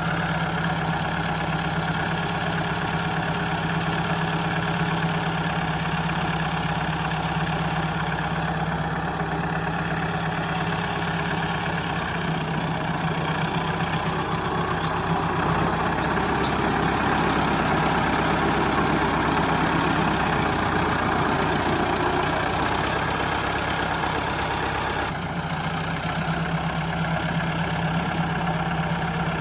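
The small electric motor of a DIY model tractor running steadily with a whine and gear noise. It grows rougher and slightly louder about halfway through, then settles back near the end.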